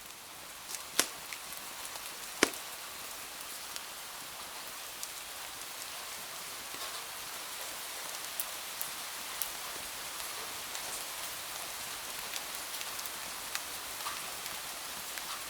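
Steady rain hiss with scattered drop ticks, and two sharp pops about a second and two and a half seconds in.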